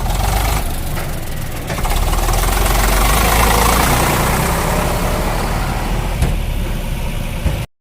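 Heavy diesel engine running, growing louder about two seconds in and then cutting off abruptly just before the end.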